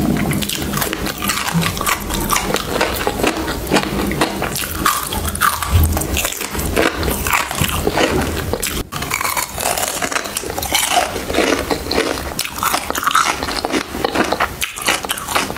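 Close-miked biting and chewing of small sweets: a dense run of crackly clicks and mouth sounds, broken briefly about nine seconds in.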